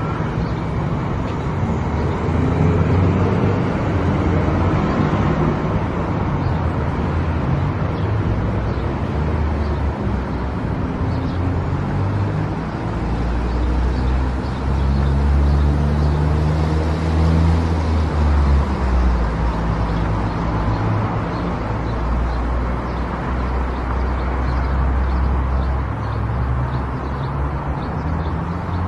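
Car driving on the road: steady tyre and road noise with a low engine hum whose pitch shifts up and down about halfway through.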